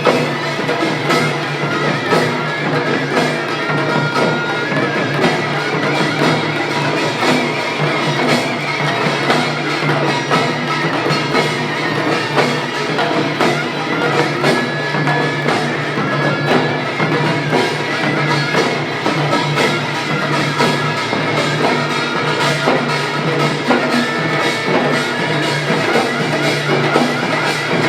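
Korean pungmul ensemble playing: drums and gongs beating in a dense, fast, unbroken rhythm, with some held tones over the percussion.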